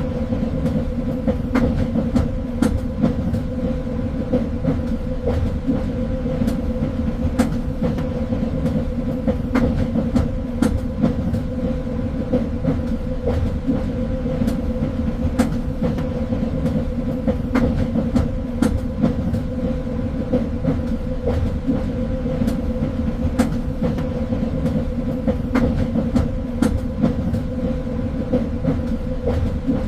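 Train running along the rails with a steady low rumble and a constant hum, dotted with irregular clicks and knocks from the wheels on the track.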